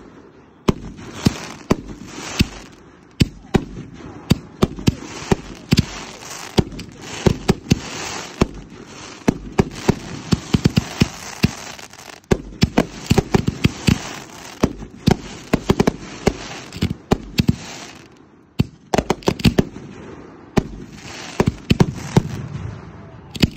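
Consumer fireworks chained together on a fuse, firing in rapid succession: dozens of sharp launch and burst bangs at an uneven pace over a steady hiss of fountains and comets, with a brief lull about three quarters of the way through.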